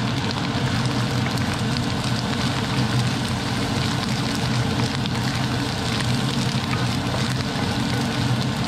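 Pickled cabbage, ginger and garlic sizzling and crackling in hot oil in a steel frying pan as a wooden spatula stirs them, over the steady low hum of a range-hood fan.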